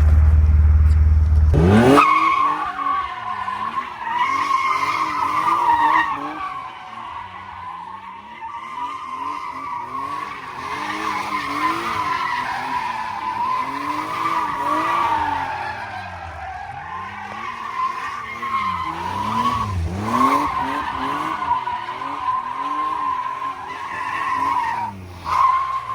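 BMW E30's S50 inline-six held at high revs through a long continuous drift, tyres squealing steadily while the engine note rises and falls over and over. The slide runs from about two seconds in until just before the end.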